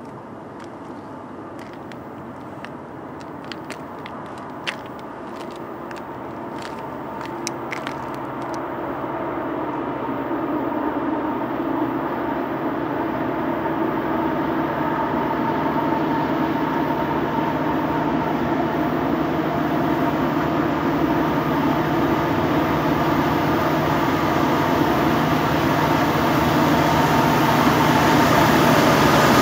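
Approaching train, its diesel locomotive's rumble and hum growing steadily louder over the half minute as it draws near. A few faint sharp clicks come in the first several seconds.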